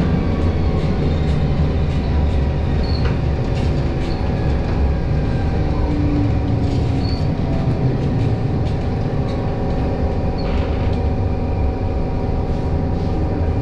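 Tram running along its rails: a steady low rumble of wheels on track under a constant hum, with a few light clicks and three brief high wheel squeaks.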